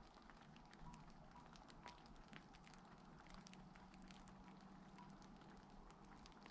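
Faint rain pattering: scattered drops ticking over a soft, steady hiss.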